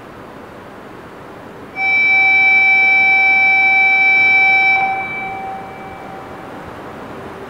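A single loud, steady horn tone sounds about two seconds in, holds for about three seconds, then cuts off and echoes briefly, over the steady running noise of an E2 Series Shinkansen train.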